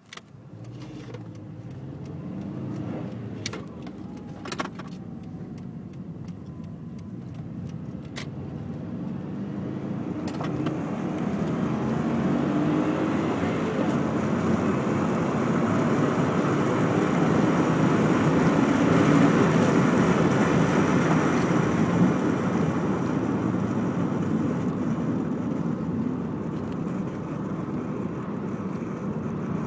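1999 Subaru Impreza 2.0 Turbo's turbocharged flat-four, centre catalytic converter removed, pulling hard under acceleration, with road and wind noise building as speed rises before levelling off. A few sharp clicks come in the first ten seconds.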